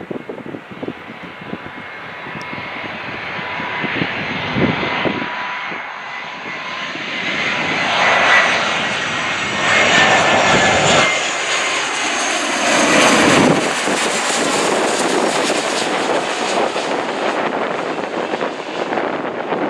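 Jet airliner passing overhead: its engine roar builds over the first several seconds, peaks for several seconds and stays loud, with high whining fan tones that slowly fall in pitch. Gusts of wind buffet the microphone.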